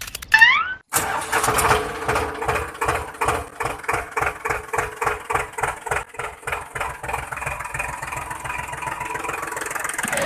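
Small engine chugging steadily with a regular beat of about four pulses a second, after a brief rising whoop at the start.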